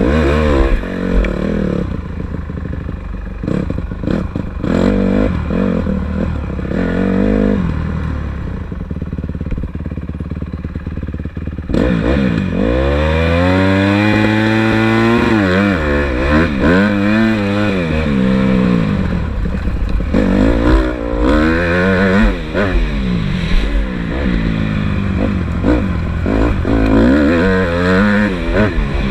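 Honda CRF150R dirt bike's single-cylinder four-stroke engine out on a motocross track, its pitch climbing and dropping again and again as the rider opens and closes the throttle and shifts. Quieter for the first dozen seconds, then much louder and revving hard from about twelve seconds in.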